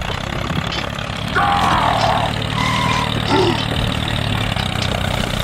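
A small engine runs steadily at idle with an even low chugging. Over it, briefly and about a second and a half in, comes a short pitched voice-like call, then a couple of brief tones.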